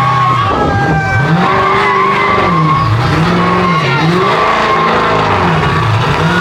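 A car spinning its tyres: tyres squealing, with the engine note rising and falling over and over, about once a second.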